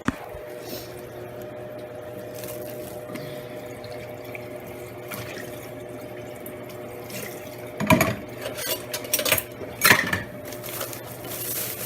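Kitchen tap running into a sink over the steady hum of a kitchen exhaust fan, with louder irregular splashing in the last few seconds.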